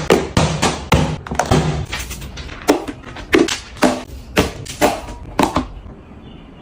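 A quick run of hard taps and knocks, like items and containers being handled and set down. They come thick at first, then about two a second, and stop near the end.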